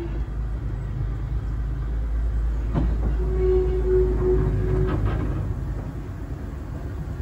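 Preserved LMS brake van running along the line behind the Fowler locomotive: a steady low rumble from the wheels on the rails, with a couple of sharp knocks and a short steady whine near the middle.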